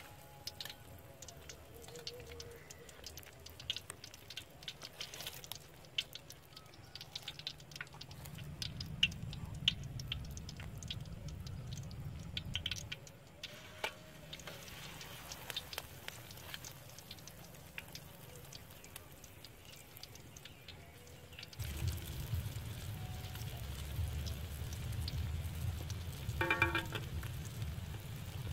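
Battered onion rings frying in hot oil in an aluminium wok, with irregular crackling and spitting pops. A low rumble comes and goes, and near the end there is a brief metallic clink.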